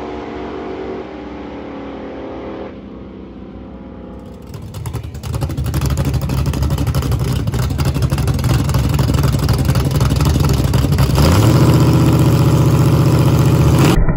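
Fox-body Ford Mustang drag car's engine running loudly on the starting line with a steady lope, then held at higher revs about eleven seconds in, waiting for the launch. For the first few seconds a quieter engine sound is heard from further down the track.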